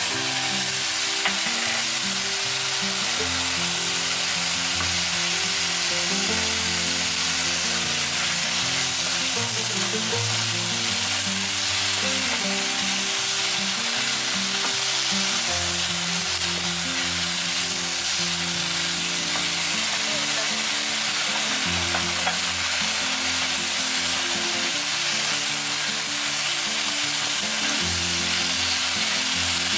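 Sliced eggplant and onion sizzling steadily in hot oil in a nonstick frying pan as they are stir-fried and tossed with a spatula, with quiet background music underneath.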